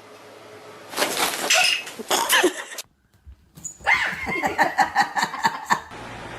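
A dog barking and vocalising in two short bursts with a brief silent break between; the second burst is a quick run of repeated calls.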